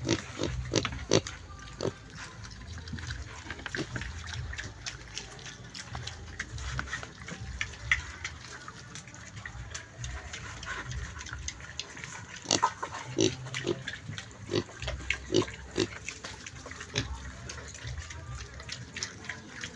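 A pig making short, sharp calls over and over, in clusters about a second in and again about two-thirds of the way through.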